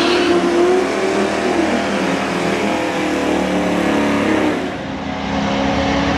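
Chevrolet C5 Corvette's V8 accelerating hard down a drag strip, its note climbing and dropping back as it shifts through the gears, then fading somewhat about five seconds in.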